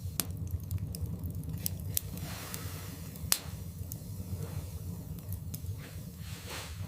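Wood fire burning in a fireplace: scattered sharp crackles and pops over a steady low rumble, with a soft hiss swelling and fading midway and one louder pop about three seconds in.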